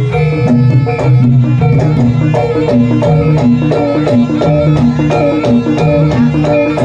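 Loud live Javanese jaranan ensemble music: drumming and struck pitched metal percussion in a steady repeating pattern under a sustained reedy melody.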